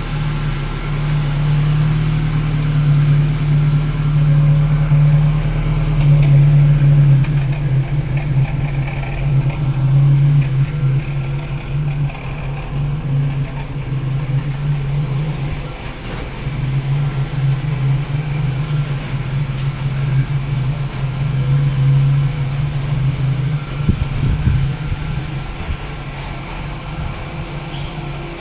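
Engine running steadily with a constant low hum, easing off briefly about halfway through.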